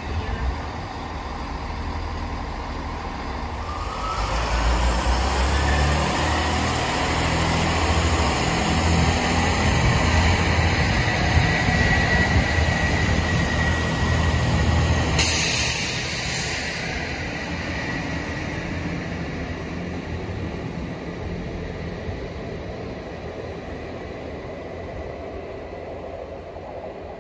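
Transport for Wales diesel multiple unit pulling out: its engines rumble and a whine rises in pitch as it accelerates, then holds steady. A sudden hiss comes in about halfway through, and the sound then slowly fades as the train draws away.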